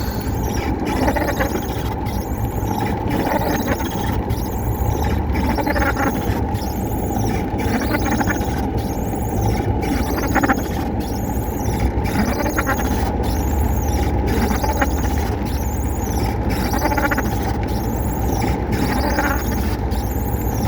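A high squeal that rises and falls about once a second, repeating evenly, over a steady low rumble.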